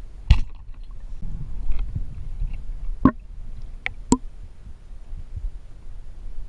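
Water sloshing and gurgling around the camera, with a low rumble and a few sharp clicks or knocks, the loudest just after the start.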